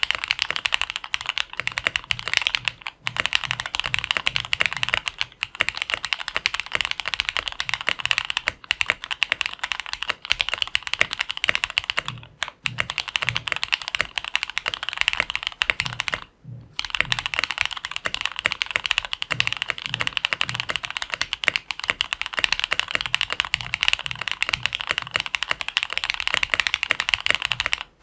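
Fast typing on a plateless FL CMMK MK870 mechanical keyboard with Jwick Black linear switches. It is a dense, continuous clatter of keystrokes, broken by brief pauses about 3, 12 and 16 seconds in.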